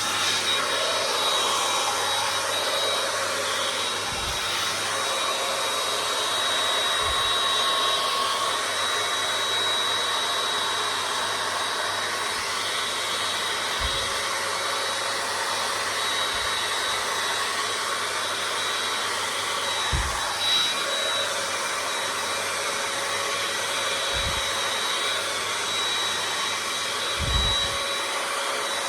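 A hot air brush dryer blowing steadily on its high setting, with a thin high whine from its motor over the rush of air. A few brief low knocks come through it, about every few seconds.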